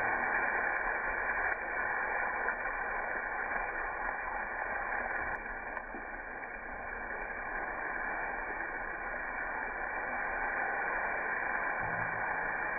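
Onions and garlic sizzling in hot bacon fat in a cast-iron Dutch oven, a steady frying hiss.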